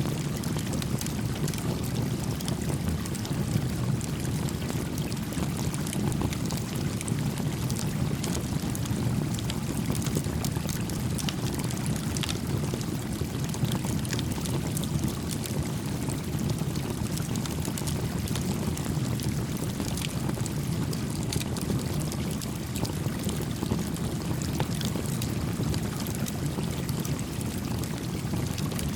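Small campfire crackling beside a gently flowing creek: a steady low rush of water with scattered sharp pops and snaps from the fire.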